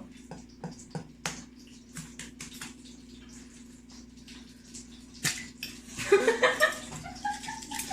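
An egg being tapped against a mug and cracked open: a scatter of small clicks and knocks, with a sharp one about a second in and a louder one about five seconds in.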